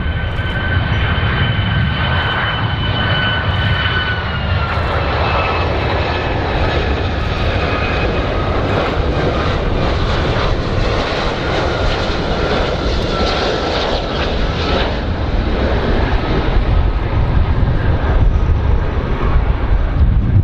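Large airplane's engines running loud and steady, with a high whine over the roar that drops in pitch about four seconds in and fades out about fifteen seconds in.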